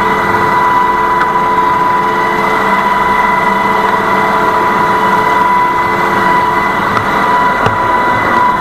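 A boat's engine running steadily, with a steady high whine over its rumble.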